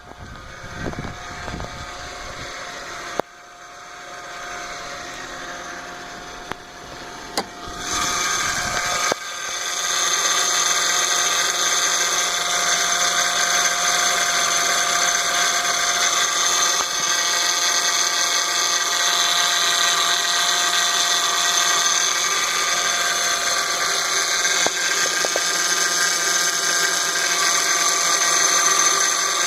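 Power steering pump of a Honda Accord V6 whining: a steady, loud, high-pitched whine with several tones that sets in about eight seconds in and holds. This is the fault noise the owner traces to the pump.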